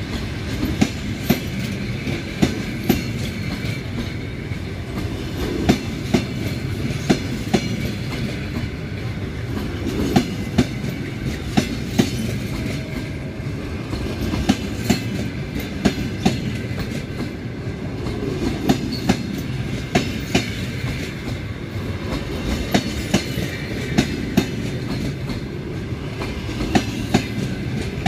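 Passenger coaches rolling past, a steady rumble under sharp wheel clicks that come in pairs as each bogie's wheels cross a rail joint, a pair every second or two.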